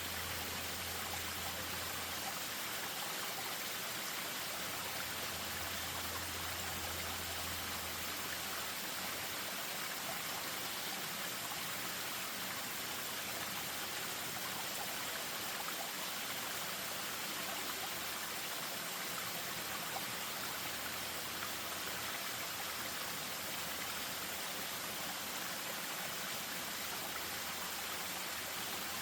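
Spring-fed stream running over a small waterfall: a steady rush of water, with a low rumble under it for the first several seconds.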